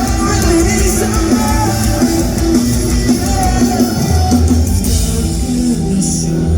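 Live rock band playing loud: drum kit, guitars and bass in full swing between sung lines, as heard from the audience. The cymbal wash drops away about five seconds in.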